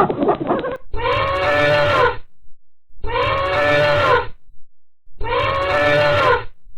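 An animal call played three times with silent gaps, each call about a second long and rising then falling in pitch.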